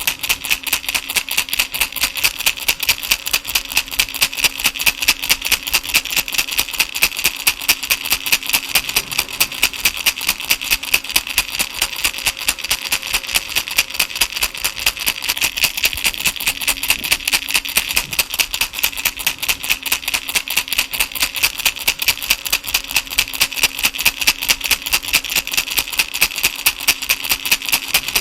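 Baby rattle shaken steadily in an even rhythm, about four shakes a second.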